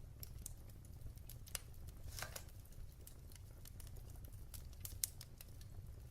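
Wood fire crackling in a fireplace: irregular sharp pops and snaps over a low steady rumble of the flames, with a brief cluster of crackles about two seconds in and one sharper pop near the end.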